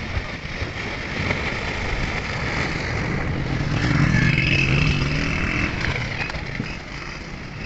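Floodwater rushing loudly and steadily, with a motor vehicle's engine growing louder and then fading around the middle.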